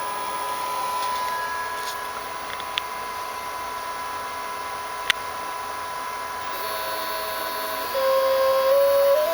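A 380 oz-in stepper motor running with a steady high whine, with two sharp clicks in the first half. About two-thirds of the way through, a stepped tone comes in and climbs in pitch in steps, getting louder near the end, as the motor's step rate changes.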